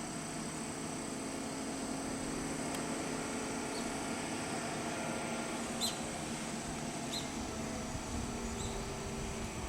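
Rough-terrain crane's diesel engine running steadily, with a few short high chirps over it.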